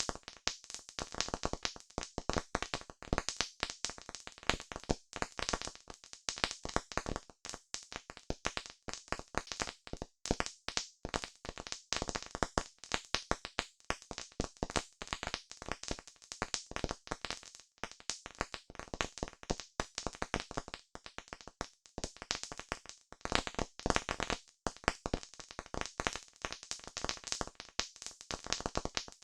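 Campfire crackling: wood burning with a dense, irregular stream of sharp pops and snaps.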